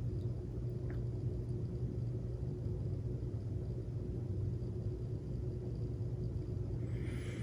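Steady low background hum with a faint steady tone above it; no other sound stands out.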